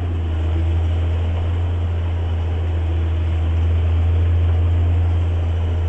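JCB Fastrac 8250 tractor running steadily under load while ploughing, a deep even engine drone.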